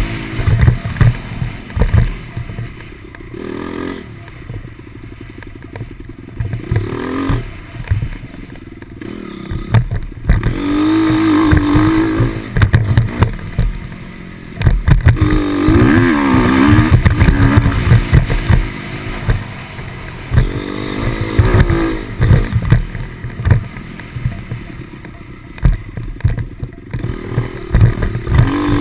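Motocross motorcycle engine revving up and dropping back over and over, its pitch rising and falling, with louder stretches about ten and fifteen seconds in.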